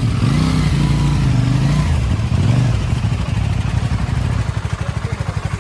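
CFMOTO 450NK's 449 cc parallel-twin engine revving, its pitch rising and falling, then dropping to a steady, pulsing idle near the end.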